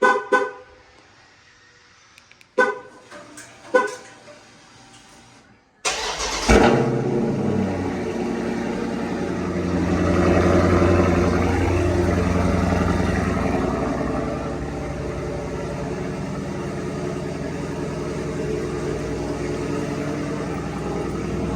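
Three short beeps, then about six seconds in the 2021 Dodge Challenger Scat Pack's 392 HEMI V8 cranks and fires on a cold start with a brief rev flare, settling into a steady fast idle.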